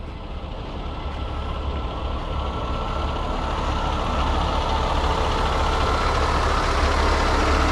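Heavy tow truck's engine running, growing steadily louder, with a faint steady whine over the low rumble.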